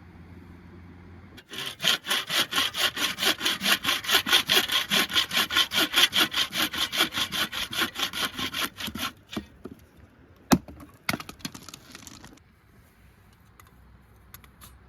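Hand saw cutting through wood in rapid, even back-and-forth strokes that stop after about seven seconds. A sharp knock and a few small clicks follow.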